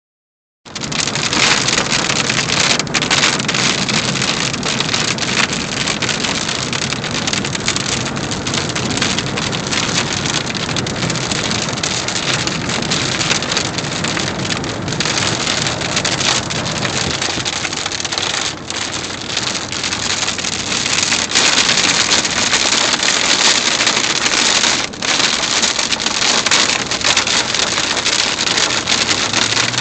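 Heavy storm rain pelting down in a steady loud hiss.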